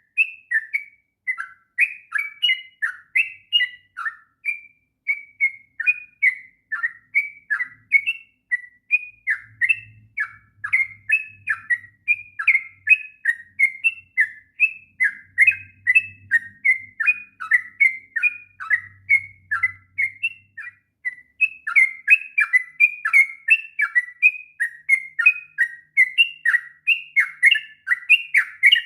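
Yellow-vented bulbul singing a long, unbroken run of quick chattering whistled notes, about three a second.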